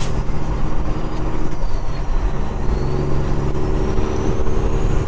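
Peterbilt 389 glider's diesel engine running under way, heard from inside the cab. A sharp click comes right at the start, and the engine note shifts about a second and a half in.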